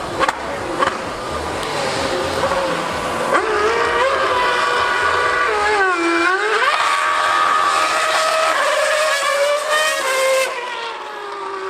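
High-revving racing engine on track, its pitch rising and falling through the gears. The revs drop sharply about six seconds in and then climb again, and the note falls away near the end.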